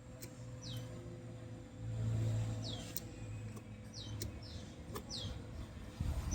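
A bird giving short downward-sweeping chirps, repeated every second or so, over a low steady hum that swells briefly about two seconds in.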